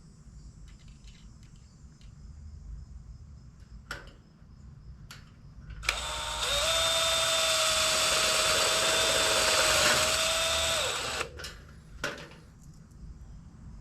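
Power drill running steadily for about five seconds, starting about six seconds in, with a few sharp knocks from handling wood and tools before and after.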